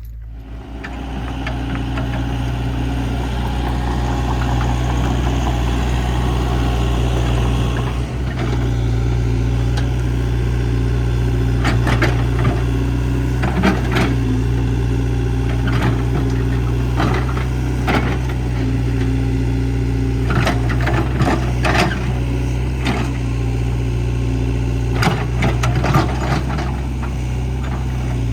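Komatsu excavator's diesel engine running steadily under work, growing louder about a second in, with scattered clanks and knocks in clusters through the second half as the machine digs.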